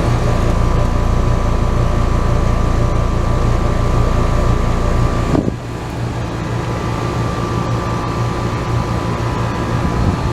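Central air conditioner outdoor units running: a 2015 Trane XR14 5-ton and a York. Loud and steady, with a hum and a deep rumble. The rumble drops off abruptly about halfway through.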